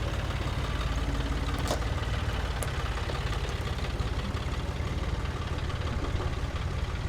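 Engine of a Wood-Mizer LT70 band sawmill idling steadily, with a couple of faint clicks about two seconds in.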